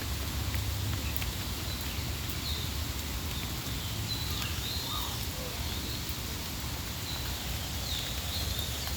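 Birds giving short, high chirps every second or so over a steady low rumble and hiss.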